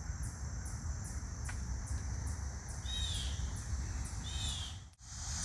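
An insect, cricket-like, chirping at a steady high pitch about twice a second, with a bird giving two short calls a little past the middle, over a low rumble. The sound cuts out for a moment near the end.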